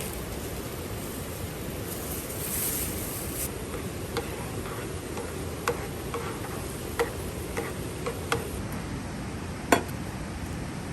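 Steady rush of a mountain stream, with a brief hissy swell a couple of seconds in. From about four seconds on, a scattering of sharp single clicks and taps, about seven of them, the loudest near the end.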